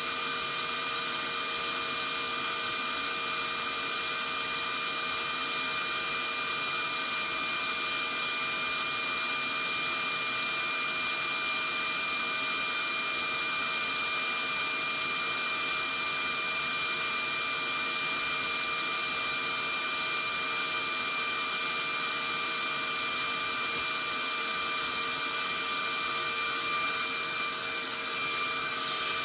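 Vacuum cleaner running steadily, a constant whooshing hiss with a fixed high whine from its motor.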